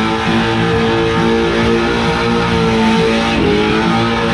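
Pro 2 short-course race truck's V8 engine held at very high RPM in a burnout, with tyres spinning. The revs dip briefly and climb back a little after three seconds in.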